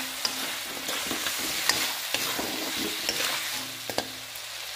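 Chicken pieces sizzling as they fry in oil in a black wok, while a steel spoon stirs them, scraping and clicking against the pan again and again.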